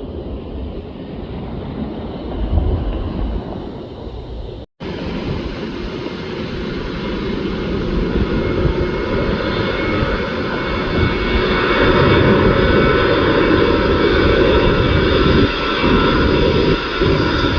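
Boeing 737 jet engines running close by, a low rumble with a high whine that grows steadily louder and stays loud through the second half. The sound cuts out for an instant about a third of the way in, then resumes.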